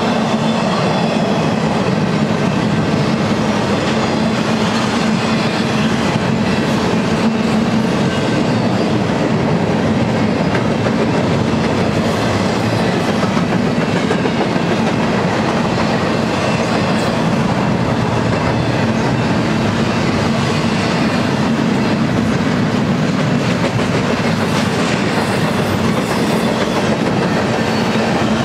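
Double-stack intermodal freight train's well cars rolling past steadily: a continuous noise of steel wheels running on the rails.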